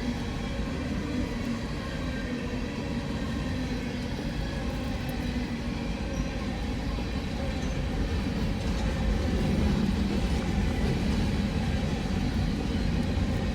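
Tail end of a long CSX coal train rolling over the crossing: a steady rumble of freight-car wheels on the rails.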